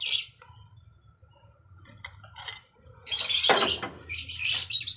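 Bird chirping in short high-pitched bursts, about three and four seconds in.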